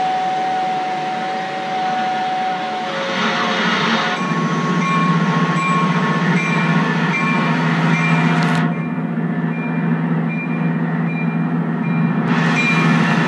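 Train sounds from a television soundtrack, heard through the TV's speaker: a steady low rumble with held steady tones over it. The sound goes duller for a few seconds past the middle.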